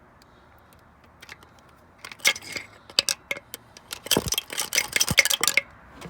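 A quick run of sharp metallic clicks and clinks, starting about two seconds in and stopping a few seconds later: small metal parts or tools being handled. The engine is not running.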